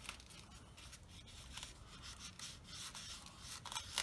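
Tape being pressed and rubbed down by hand onto a foam model plane's fuselage: soft, scratchy rubbing and rustling, with a couple of small clicks near the end.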